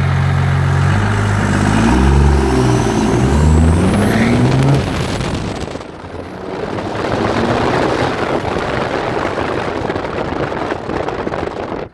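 A Chevy Silverado's swapped-in 12-valve Cummins inline-six diesel running loud through a 5-inch straight pipe. It idles steadily, then is revved hard about a second in, with a high whine rising and falling. For the second half the sound turns into a broad rough exhaust rush.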